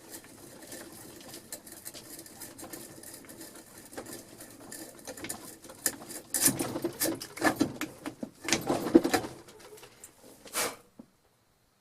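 Vintage hand drill boring into wood with a freshly sharpened auger bit. A faint scraping gives way, about six seconds in, to louder grinding creaks roughly once a second as the bit bites into the wood.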